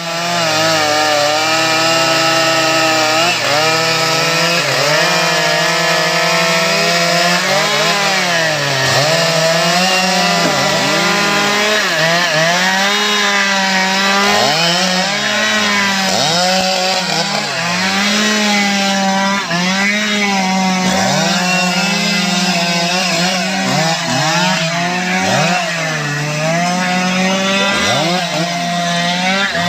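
STIHL MS 881 two-stroke chainsaw running at full throttle while cutting into wood. It holds steady at high revs for several seconds, then its pitch drops and climbs back again and again as the chain bogs under load in the cut and recovers.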